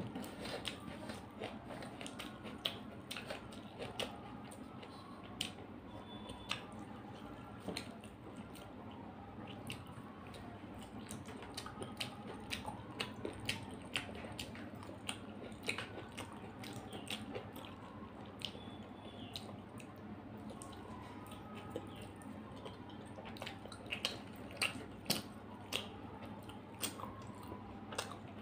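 Close-miked eating: chewing rice and chicken curry, with many short wet mouth clicks and squishes.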